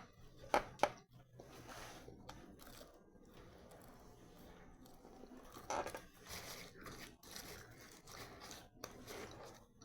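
Biting into and chewing a fried coxinha close to the microphone: a couple of sharp crunches in the first second, then uneven crunchy chewing that gets louder around the middle.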